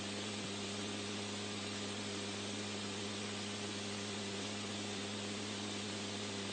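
Steady hiss of static with a low electrical hum underneath, from an open radio comms line between transmissions.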